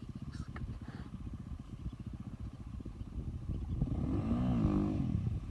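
KTM 450 EXC's single-cylinder four-stroke engine idling, then revved up once and let back down near the end.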